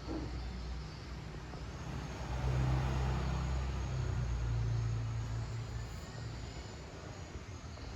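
A motor vehicle passing by: a low engine rumble that swells about two and a half seconds in and then slowly fades.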